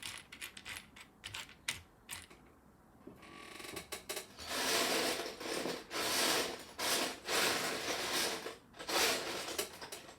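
Loose plastic Lego bricks: a few scattered clicks at first, then a pile of them rattled and sifted by hand in several long bursts from about three and a half seconds in, as someone searches for a piece.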